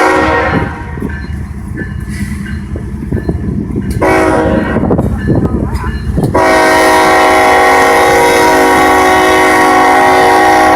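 Freight locomotive air horn blowing a chord of several tones as the train approaches a grade crossing. A blast ends about half a second in, then comes the rumble and clatter of the train. The horn sounds again from about 4 seconds, and a long, loud blast starts at about 6 seconds and holds.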